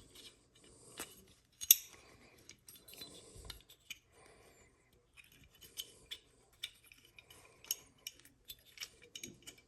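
Small metal clicks and light scraping, irregular and several per second, from an AR-15 magazine catch being spun by hand onto its threaded release button in the lower receiver.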